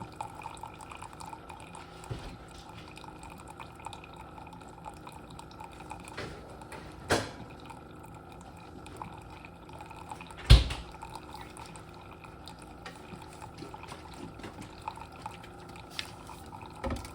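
Faint dripping of liquid over a steady low hum, broken by two sharp knocks; the second and louder one, about ten and a half seconds in, lands with a heavy thud.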